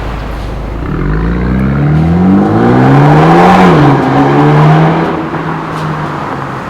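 BMW M235i's turbocharged four-cylinder engine running through a valved aftermarket cat-back exhaust, its note climbing in pitch under acceleration, then dropping abruptly about three and a half seconds in and holding steady as it fades.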